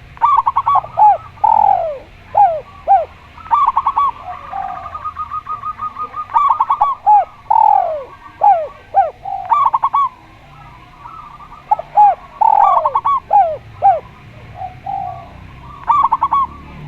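Spotted dove and zebra dove cooing in repeated bouts. Each bout is a quick run of short clipped notes followed by a few longer falling coos, and about five such bouts come in turn.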